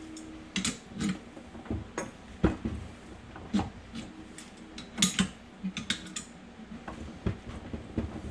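Irregular metal clinks and knocks from wrenching a gear puller that is drawing the old 6th gear off a transmission shaft: steel tool on steel, with no steady rhythm.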